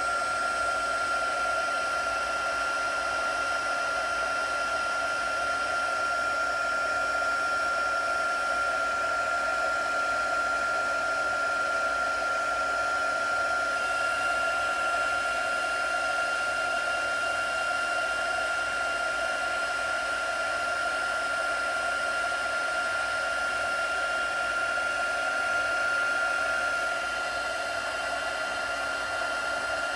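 A small motor-driven fan or blower running steadily: a loud, even rush of air with a high, constant whine. A fainter second whine joins about halfway through, and the sound drops slightly near the end.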